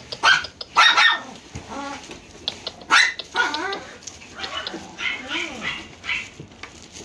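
Dogs barking and yipping in short, irregular bursts, the loudest about a second in and again about three seconds in.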